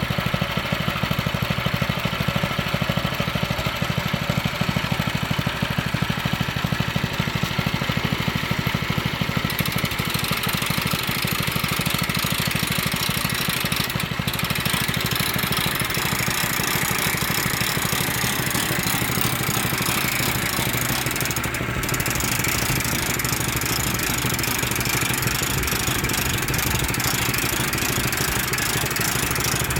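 An engine running steadily at a low, even speed, with more high-pitched noise from about ten seconds in.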